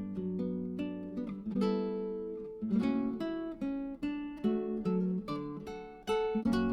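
Background music: acoustic guitar playing a light melody of plucked and strummed notes, each ringing and fading.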